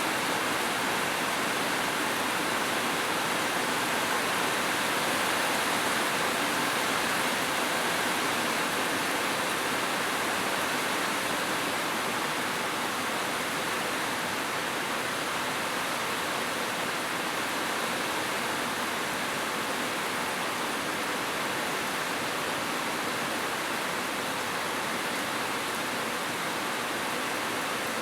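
Rain falling steadily, a dense, even hiss with no single drops standing out.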